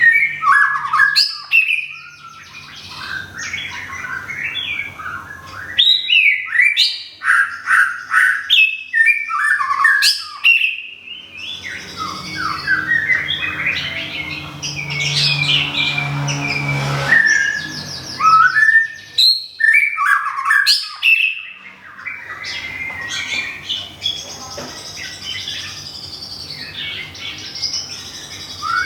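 White-rumped shama singing: a long run of loud, varied whistled phrases and quick chattering notes, broken by short pauses.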